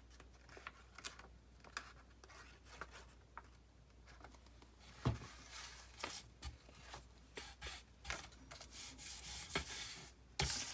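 Paper envelope being handled and glued shut: light taps and clicks, a knock about five seconds in, then rubbing and rustling of paper as it is pressed down.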